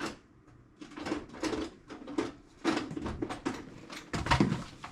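Metal tool box being handled and shifted on a floor covering: a string of irregular knocks, clunks and scuffs, the loudest about four seconds in.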